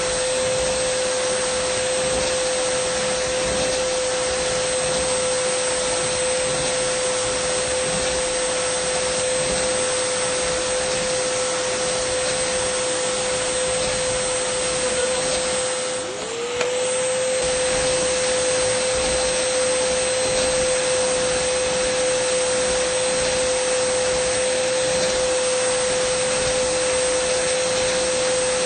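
Dyson vacuum cleaner running steadily, a high motor whine over rushing air. About 16 seconds in, the whine briefly sags in pitch and loudness, then climbs back to full speed.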